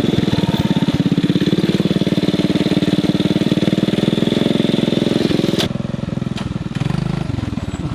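Coleman CT200U mini bike's small single-cylinder four-stroke engine running with a steady, even firing pulse. A little after halfway there is a click and the level drops, then the engine revs up and back down once near the end.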